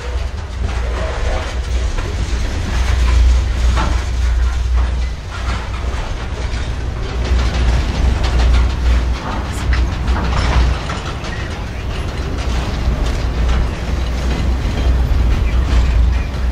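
Freight train cars rolling past close by: a steady low rumble of wheels on rail, with irregular clanks and clicks throughout.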